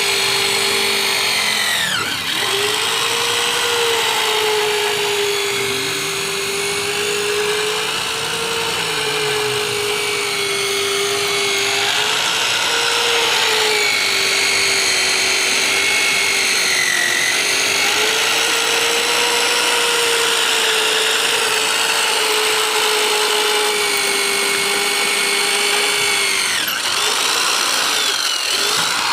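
Electric drill boring a hole through the steel side rail of a Hino truck chassis, its motor whining steadily under load. The pitch sags briefly about two seconds in, and the steady motor note breaks off near the end.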